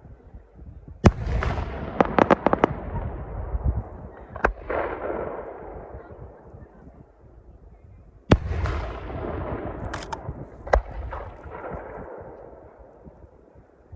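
Aerial fireworks shells bursting: sharp bangs, each followed by a long rolling echo. A quick run of smaller bangs comes around two seconds in, and loud single bangs come about a second in and about eight seconds in.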